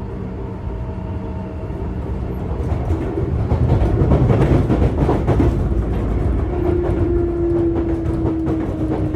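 Running sound inside a Sotetsu 8000-series electric train motor car: wheels rumbling on the rails with clicks over rail joints, loudest around the middle. From about two-thirds of the way in, a steady motor tone falls slowly in pitch as the train slows for the next station.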